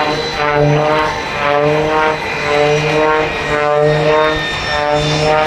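Propeller-driven aerobatic biplane (Oracle Challenger III) flying its display: a loud, steady engine and propeller drone that swells and dips roughly once a second.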